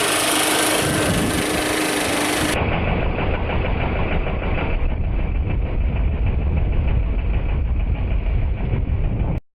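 Small engine running steadily with a rushing hiss of air, then an abrupt change about two and a half seconds in to a muffled, low, pulsing engine rumble that cuts off just before the end.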